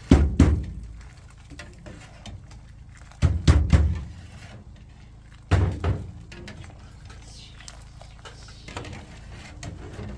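Three heavy, dull thuds a few seconds apart, each deep and short, over a low steady rumble.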